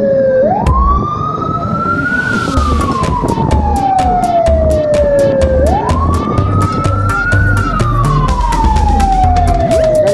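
Vehicle siren wailing. Its pitch rises quickly, then falls slowly, in a cycle about every five seconds, over low thumping and a run of sharp clicks.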